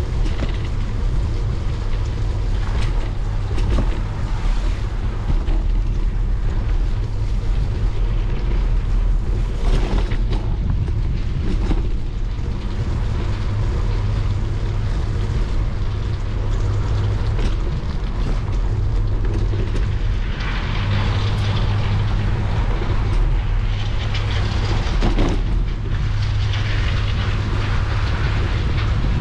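Bicycle riding on a wet path: steady low rumble of the tyres rolling with wind on the microphone. A brighter hiss swells twice in the last third.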